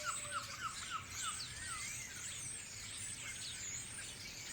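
Garden birds singing and chirping, several at once, with a quick run of repeated short notes in the first second or so.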